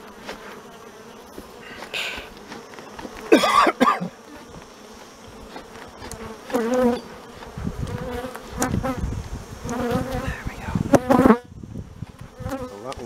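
Honey bees buzzing around an open hive, a steady hum that swells loudly and wavers in pitch a few times.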